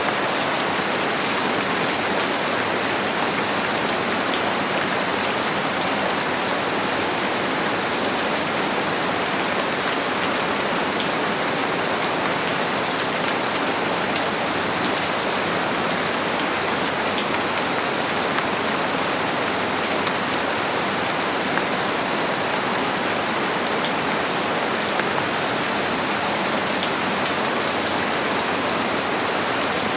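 Steady rain falling and pattering on a surface, a dense even hiss with many fine drop ticks.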